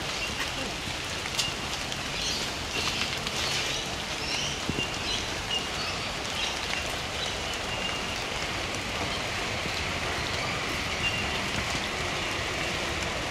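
Steady rain falling and pattering on surfaces, with scattered drip ticks and short high chirps dotted through it.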